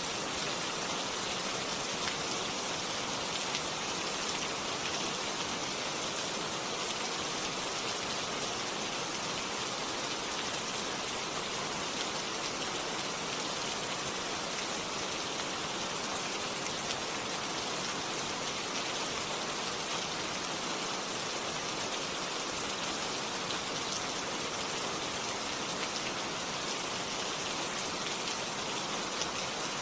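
Steady rain falling, an even hiss of many raindrops with no thunder.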